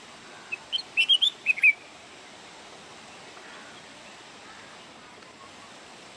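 A songbird giving a short burst of quick chirps and twitters about half a second in, lasting a little over a second, then only a steady faint hiss.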